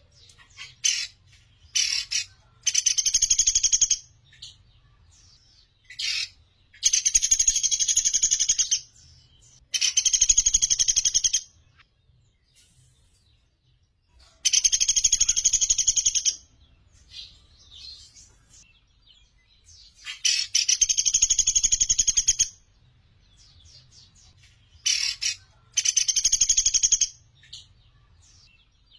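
Caged pelatuk beras bird calling in loud, very rapid high trills, each burst lasting from half a second to about two and a half seconds, repeated about nine times with short pauses between.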